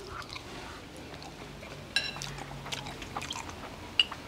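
A man chewing a mouthful of barbecued chicken: quiet, wet mouth sounds with a few sharp clicks, the clearest about two seconds and four seconds in.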